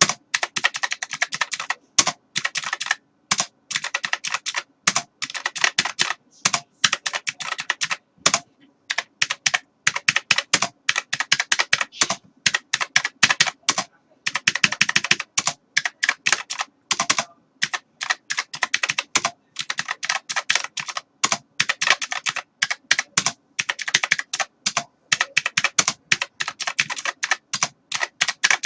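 Typing on a computer keyboard: rapid key clicks in runs of a second or two, broken by short pauses.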